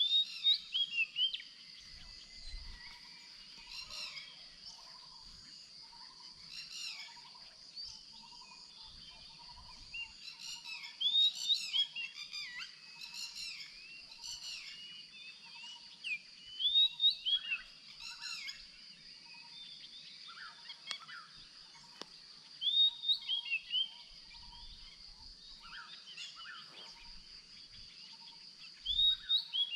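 Birds calling in clusters of quick chirps over a steady, high-pitched insect drone, with a faint series of lower repeated notes underneath.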